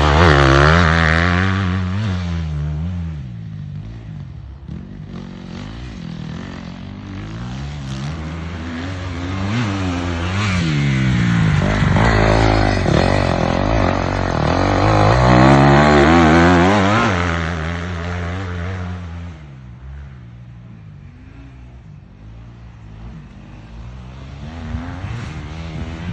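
Motocross dirt bike engine revving up and dropping off again and again as it rides, its pitch rising and falling. It is loudest at the start and again a little past the middle, then falls quieter toward the end.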